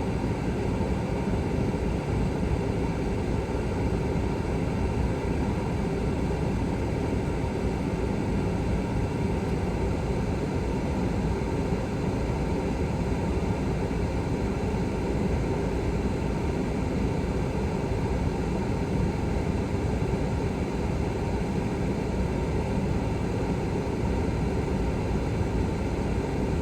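A truck cab's air conditioning blowing hard, a steady, unchanging rush of air.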